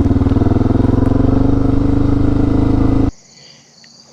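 Suzuki DR650's single-cylinder engine running at low speed with an even, rapid pulse, stopping abruptly about three seconds in. After it, insects chirp faintly and steadily.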